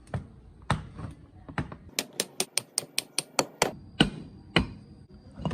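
Hammer strikes on a metal part: a few single blows, then a quick run of about ten light taps, then two more blows, leaving a faint metallic ring.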